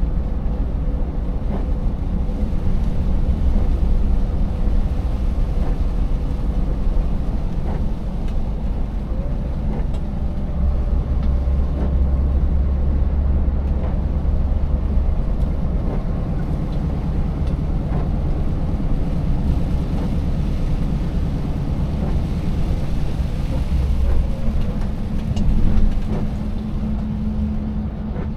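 Scania 590S V8 diesel truck running along under way, a steady low rumble of engine and road noise, with scattered knocks and rattles as it rides over a rough, broken road surface. The loudness swells briefly a little before the end.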